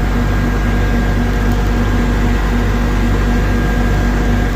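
Diesel truck engine running steadily to drive a knuckleboom log loader's hydraulics, a low even drone with a thin steady whine over it.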